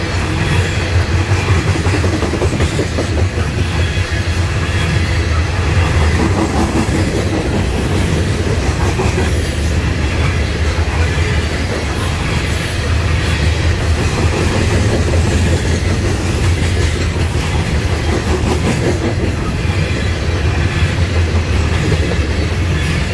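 Norfolk Southern coal train's freight cars rolling past close by: a steady, loud low rumble of steel wheels on the rails that keeps on without a break.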